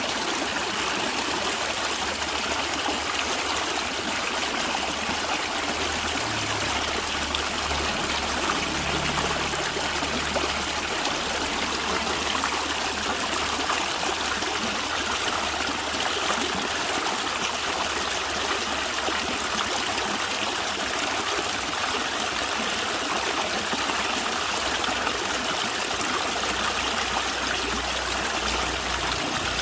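A stream of water running and trickling steadily, a continuous babbling wash with no let-up.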